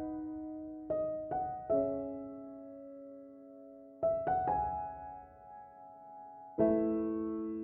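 Slow piano music: notes and chords struck a few at a time, with gaps of a couple of seconds, each left to ring and fade away.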